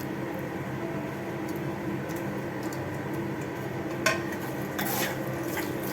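Metal spoon clinking and scraping against a cooking pot while stirring, the clinks starting about four seconds in, over a steady low hum.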